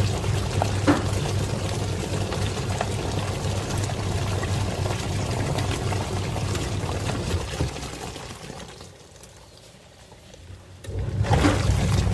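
Twin-tub washing machine running its wash cycle: a steady motor hum under churning, sloshing water, with a few small knocks. About eight seconds in, the motor and the water die away for a few seconds, then start up again.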